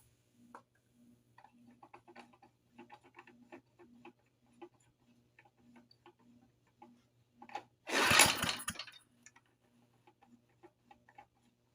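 Light clicks and ticks of hands working on a 1972 Briggs & Stratton mower engine, then about eight seconds in a loud burst lasting about a second as the engine is pulled over on its recoil starter. The engine is coming back to compression after its cylinder was filled with ring sealant.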